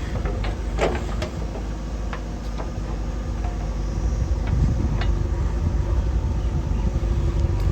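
A heavy diesel engine running steadily, getting louder about four seconds in as if put under load. A few sharp knocks sound over it.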